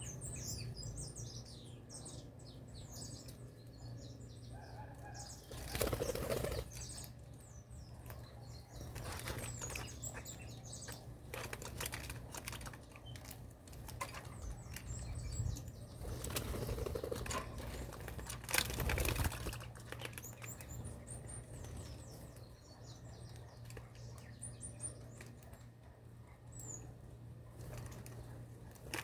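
Small birds chirping in short, high notes, with several loud bursts of wing flapping and fluttering, over a steady low hum.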